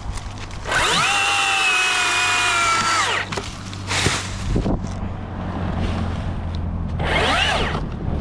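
Chainsaw speeding up, running for about two seconds and winding down, then a second short burst of revving near the end, over a steady low hum.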